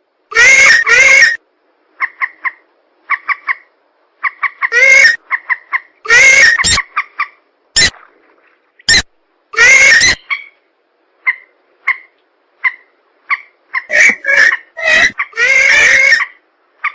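Bird-lure recording of marsh-bird calls, mandar (rails) mixed with pelan, played for hunting. Loud harsh pitched calls alternate with quick series of short pips, repeating in uneven bursts.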